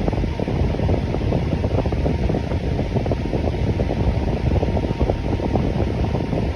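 Electric fan running steadily: an even whoosh of moving air with a low rumble and no change in speed.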